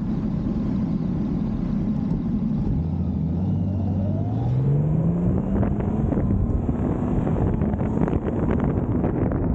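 Honda Gold Wing DCT's flat-six engine pulling under acceleration, its pitch rising over about two seconds near the middle, heard through a camera's built-in microphone with heavy wind noise buffeting over it.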